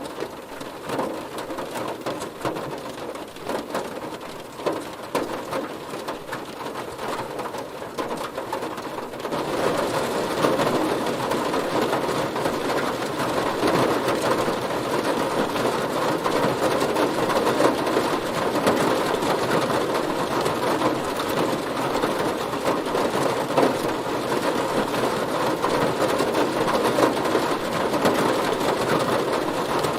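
Heavy rain pattering densely on a car's body, growing louder and heavier about nine seconds in.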